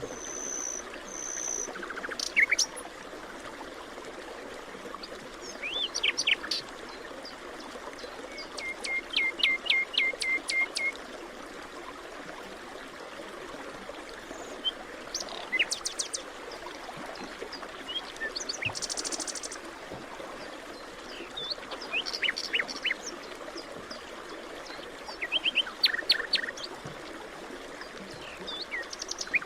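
Several wild birds calling and singing over a steady background hiss. The calls come in short phrases every few seconds: two brief high whistles at the start, a run of about eight quick, evenly spaced notes around ten seconds in, and a buzzy high trill a little before the twenty-second mark.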